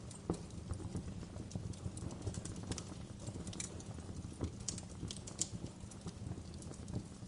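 Wood fire burning in a fireplace, crackling: irregular sharp pops and snaps over a low, steady rumble of the flames, with one louder pop about a third of a second in.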